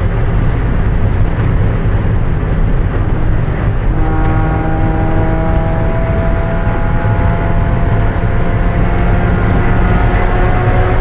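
1995 Mazda Miata's four-cylinder engine running steadily under race load, a continuous drone. About four seconds in a clearer engine tone comes in and drifts slowly in pitch as the revs change.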